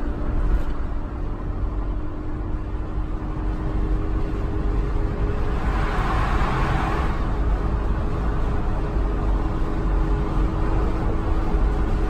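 Steady road and engine noise of a car driving at highway speed, heard from inside the cabin: a low rumble with a faint steady drone. About halfway through, a brief swell of rushing noise rises and fades.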